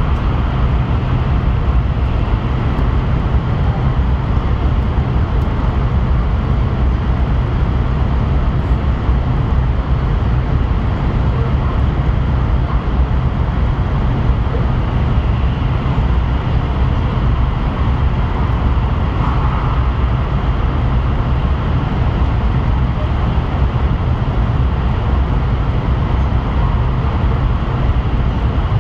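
N700S Shinkansen running at speed through a tunnel, heard from inside the passenger cabin: a steady, deep rumble of running and tunnel noise that never lets up.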